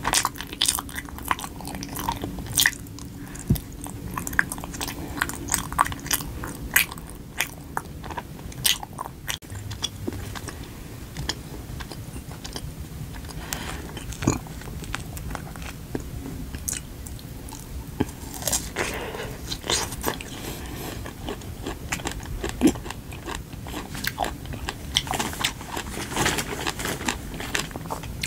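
A person biting and chewing rice cake, heard as many irregular sharp clicks and crunchy mouth sounds.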